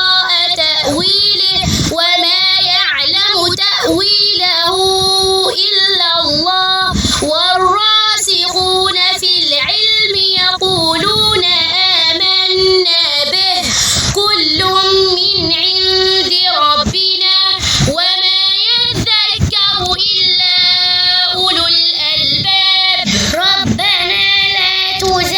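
A girl's voice reciting the Quran in melodic tajweed chant, drawing out long, wavering held notes with short breaks for breath between phrases.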